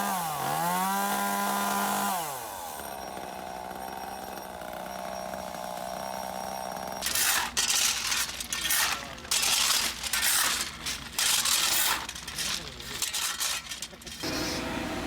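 Small two-stroke engine, most likely a chainsaw, running at high revs. It eases off briefly and revs up again, then drops to a quieter steady running. From about seven seconds there is a run of loud, irregular noisy bursts.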